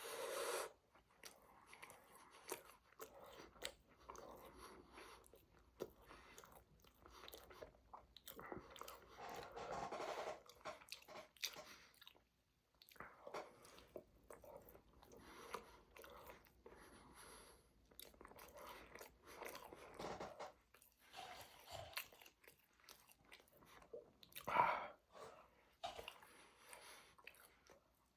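A person chewing and biting food close to the microphone: irregular wet mouth clicks and smacks, with one louder bite near the end.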